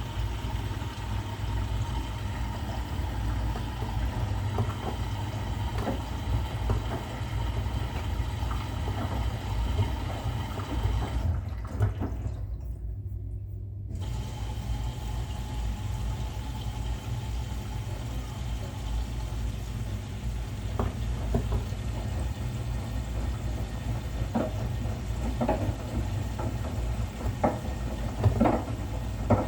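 Bosch Serie 6 washing machine running a wash: a steady low hum with water sloshing and rushing in the drum, and several short clicks or knocks near the end.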